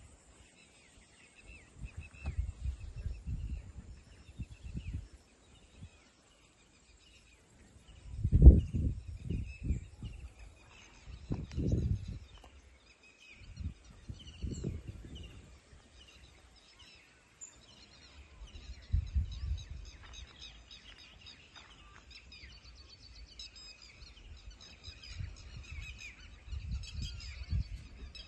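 Small birds chirping and twittering throughout, over irregular low rumbling buffets, the loudest about a third of the way in.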